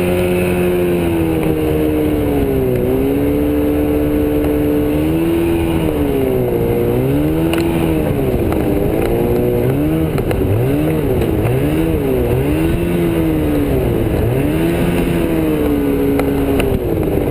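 Evinrude 50/35 two-stroke jet outboard running hard, its engine note holding steady at first, then repeatedly dropping and climbing again as the throttle is eased and opened, about once a second in the second half.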